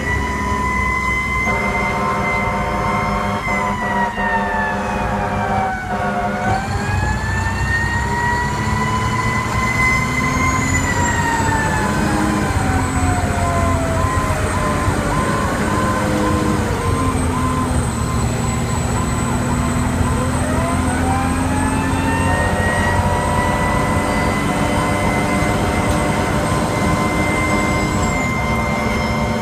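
Fire engine responding: its siren winds up and down in a slow wail, rising and falling twice, with long steady horn blasts over it near the start and again in the last several seconds, and the truck's engine running underneath.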